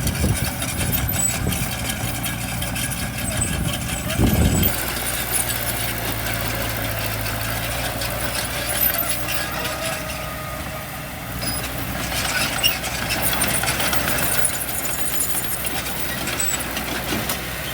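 Heavy diesel engines of dump trucks and a bulldozer idling steadily, with a short louder burst about four seconds in.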